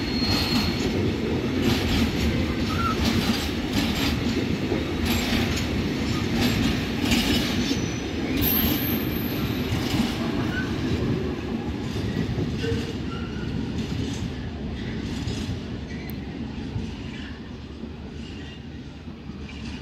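Container freight train rolling past: a steady rumble with wheels knocking over rail joints and a few brief, high wheel squeals. It fades over the last few seconds.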